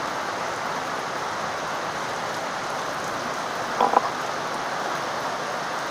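Heavy rain falling steadily, an even dense hiss, with one brief sharp sound about four seconds in.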